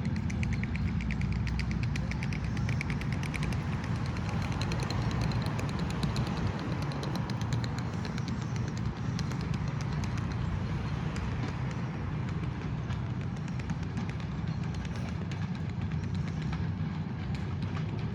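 Passenger train hauled by a 2TE10UT diesel locomotive, a steady low rumble with a rapid run of fine ticking over it, densest in the first half.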